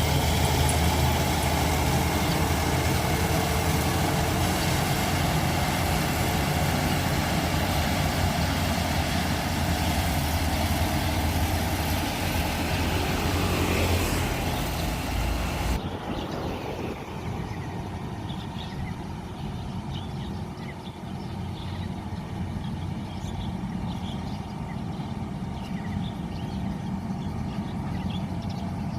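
Rice combine harvester's engine running steadily with a deep hum and hiss, cutting off abruptly about sixteen seconds in. A quieter rural background with faint bird chirps follows.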